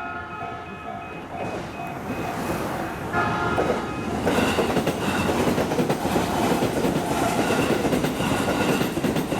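Level-crossing alarm bell dinging in a steady repeating pattern as a train approaches. A horn sounds twice, briefly. About four seconds in, the train reaches the crossing and passes: a loud rush with wheels clacking over the rail joints, while the bell keeps ringing.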